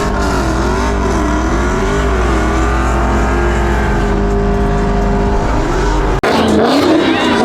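Car engine revving at high rpm, its pitch swinging up and down about twice a second and then holding steadier. It cuts off abruptly about six seconds in, and the revving picks up again.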